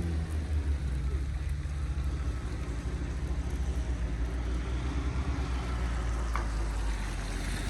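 Strong wind buffeting the microphone, a steady low rumble, with street traffic underneath.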